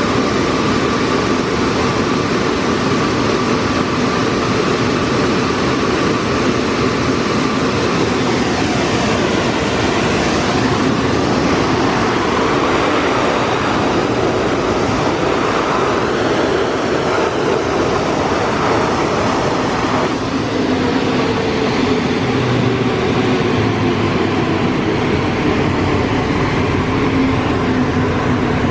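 Car wash blow dryers blasting air over the car, a loud, steady rush of air. About twenty seconds in the sound changes, and a fan tone slowly falls in pitch.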